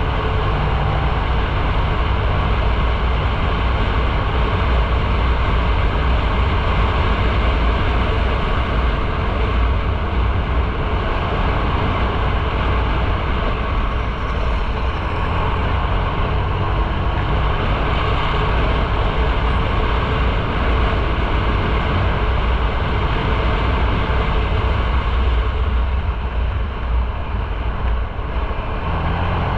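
Motorcycle riding at speed: the engine runs steadily under heavy wind and road noise on the microphone, its low note shifting a little about halfway through and again near the end.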